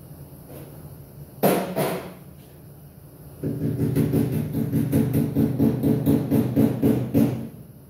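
MIG wire-feed welder running thin .023 wire on sheet steel: a brief burst about a second and a half in, then a longer stretch of buzzing, crackling welding that surges about three times a second and stops near the end.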